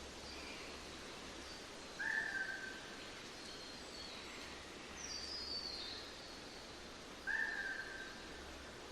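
Wild birds calling over a steady outdoor hiss. The loudest sounds are two identical short whistled notes, each falling slightly, about five seconds apart. Between them a high, fast run of notes descends in pitch.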